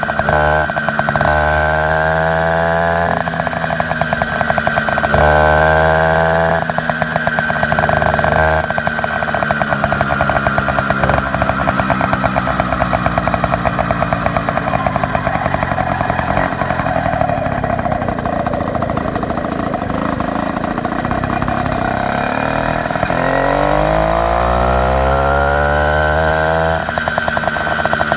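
Motorized bicycle's small engine with an upgraded exhaust, running and revving up and down several times. Near the end the pitch drops low, then climbs back up in a long rise.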